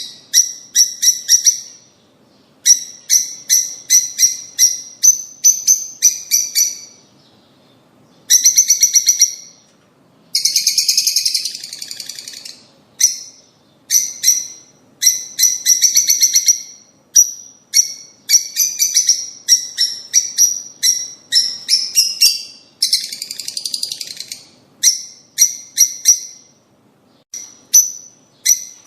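Lovebirds chirping: quick runs of short, shrill chirps broken by brief pauses, with a few longer, denser chattering bursts.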